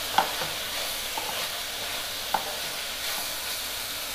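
Shredded cabbage sizzling in a hot nonstick frying pan as a spatula stirs it, with a steady hiss and a couple of sharp clicks of the spatula against the pan, one right at the start and one just past halfway. It is being stirred so it doesn't catch and burn on the bottom.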